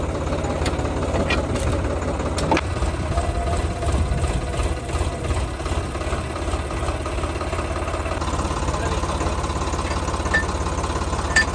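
Sonalika DI-35 tractor's diesel engine running steadily at low revs, with a few sharp clicks, one about two and a half seconds in and another near the end.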